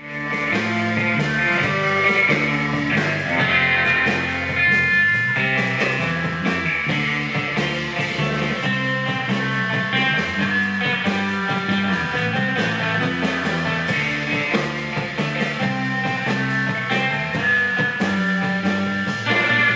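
A band playing instrumental surf rock live, with electric guitar carrying the melody over a steady beat.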